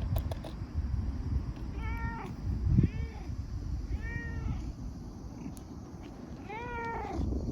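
A cat meowing four times, short arching calls about two, three, four and seven seconds in, the last the longest, over a steady low rumble.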